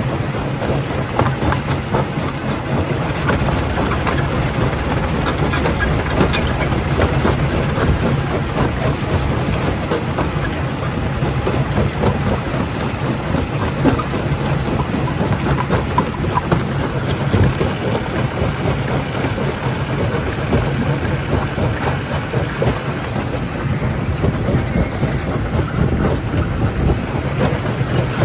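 Primary jaw crusher working rock: a steady low machine drone under a continuous, dense clatter of stone being broken and tumbling.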